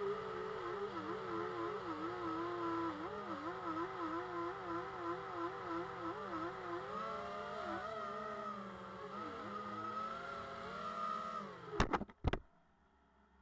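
Home-built quadcopter's electric motors and propellers whirring, the pitch wavering up and down rapidly as the motor speeds are adjusted. Near the end the pitch drops as the motors wind down, followed by a few sharp knocks.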